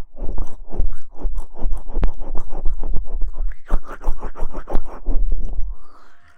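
Close-miked ASMR rustling and scrubbing right on the microphone: a dense, loud run of crackling scratches that drops away near the end.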